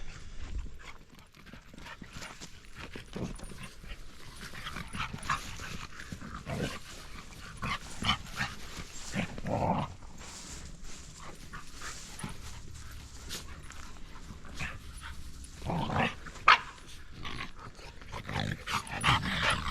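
A dog making short, irregular sounds with gaps between them; the loudest comes about two-thirds of the way through.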